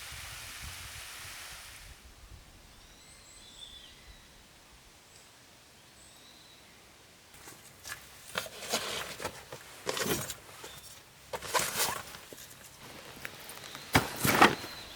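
A few faint high chirps, then from about halfway in a run of irregular rustling, crunching noises in short bursts, the loudest near the end.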